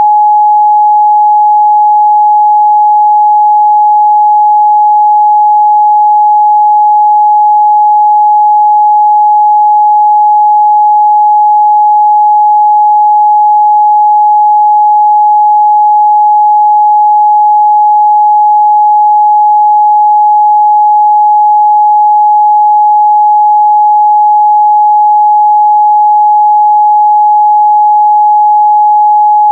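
Steady 841 Hz sine-wave test tone, a single pure pitch held at constant loudness.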